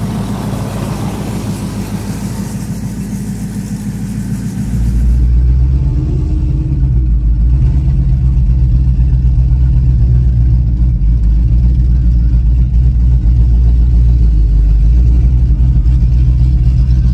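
Supercharged V8 of a C6 Corvette ZR1 heard from inside the cabin, running steadily at low revs as the car creeps along. Before it, about five seconds of car engines idling and rolling by outside.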